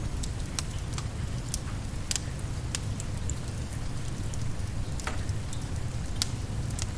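Steady rain with a low rumble, mixed with irregular sharp crackles and pops of a wood fire burning in a fireplace.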